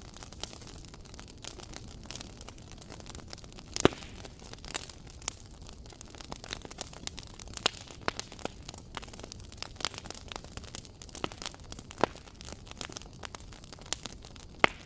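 Fireplace fire crackling: irregular sharp pops and snaps over a soft steady hiss. The loudest pops come about four seconds in and again about twelve seconds in.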